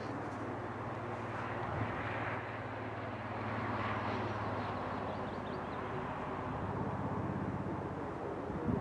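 Steady low hum and rumble of a distant electric train approaching along the line.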